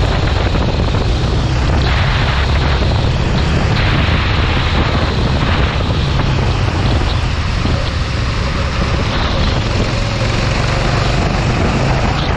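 Racing kart's engine running on track, buried under heavy wind rumble on the microphone that swells and fades in gusts.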